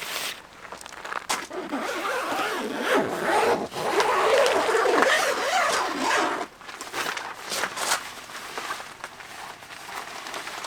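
A zipper being drawn, with fabric rustling and scraping, loudest about halfway through and lighter rustles after.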